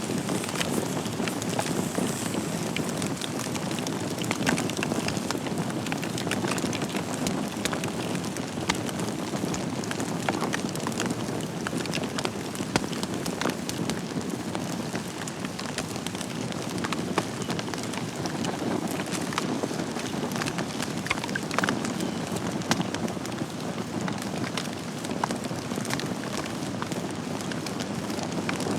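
Wood fire burning in a fireplace: a steady rush of flame noise with frequent short, sharp crackles and pops from the burning logs.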